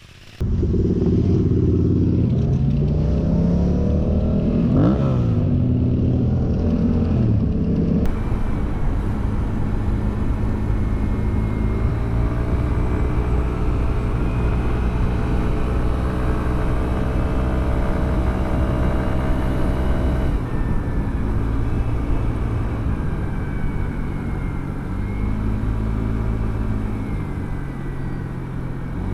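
Motorcycle engine running on the road, heard from the bike: a steady engine note that rises and falls over the first several seconds and then holds fairly even, under a layer of wind and road noise. It starts abruptly a fraction of a second in.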